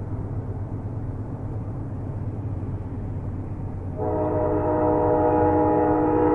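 A train running with a low, even rumble; about four seconds in its horn starts, a steady chord of several tones that holds on.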